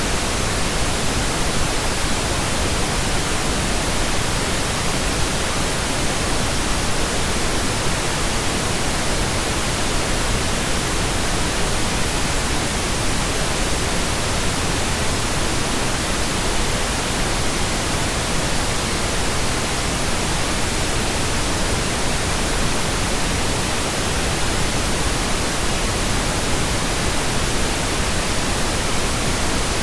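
Steady, continuous synthetic pink noise, generated in Audacity: an even hiss spread across all pitches, with no changes or events.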